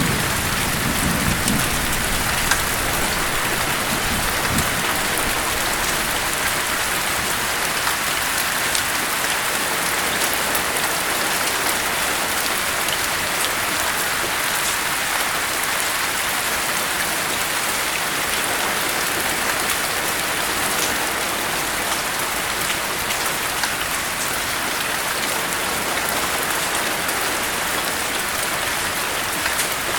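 Steady rain: an even, dense hiss of raindrops falling on surfaces. A low thunder rumble dies away in the first second or so.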